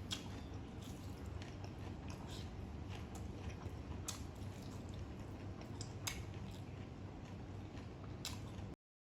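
Someone eating, with chewing and scattered small sharp clicks over a steady low hum; the sound cuts off suddenly near the end.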